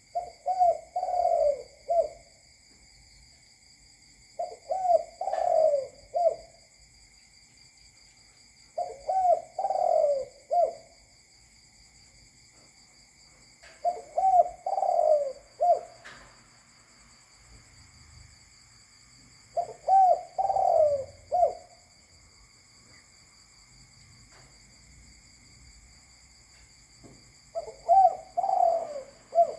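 Spotted dove cooing: six separate phrases of about two seconds each, a few short notes running into a longer coo and a clipped final note, repeated every five seconds or so. A faint steady high-pitched tone runs underneath.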